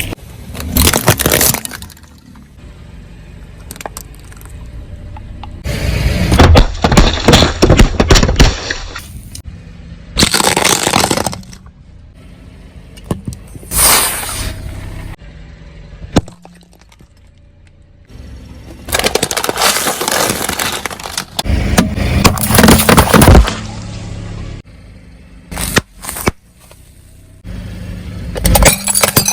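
Car tyre rolling over and crushing brittle objects: a series of loud crunching, cracking and breaking bursts, each lasting a second or two, with a quieter low rumble between them.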